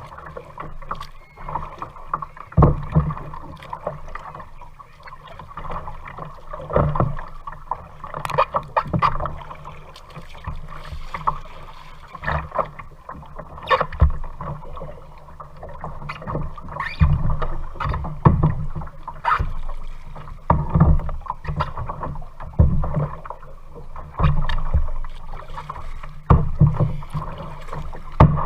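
A kayak being paddled on open water: irregular splashes and knocks every second or two over a steady wash of water against the hull.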